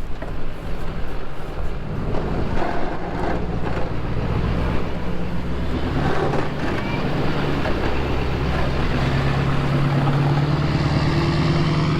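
Snow plow vehicle's engine running, with a rougher, noisier stretch in the first half and a steadier, stronger engine hum over the last few seconds.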